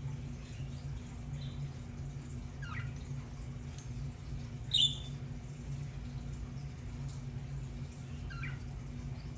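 Budgerigars giving a few short, scattered chirps, the loudest about halfway through, over a steady low hum.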